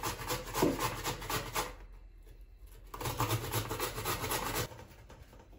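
Raw pumpkin being grated by hand on a metal grater: quick rasping strokes, stopping for about a second midway and then starting again. The pumpkin is hard and grates with difficulty.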